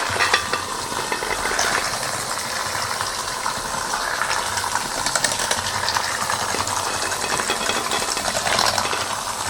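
Hamilton Beach Professional electric hand mixer running steadily on low, its beaters churning cooked chicken and cream cheese to shred the chicken and splattering the mix.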